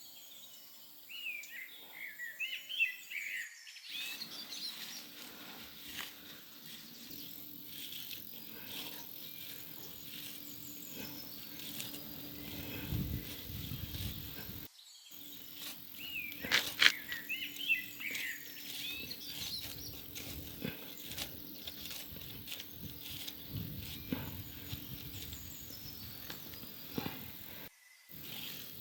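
Birds chirping over steady outdoor background noise, with a cluster of quick chirps near the start and another about halfway through.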